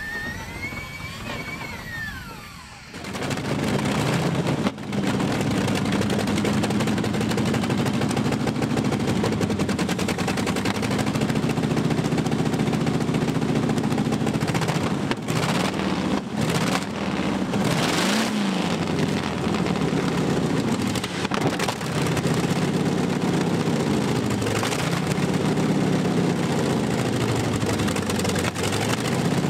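A tractor-pulling tractor's engine, run loud and revved up and down again and again. A short whine rises and falls at the start, and the engine comes in about three seconds in.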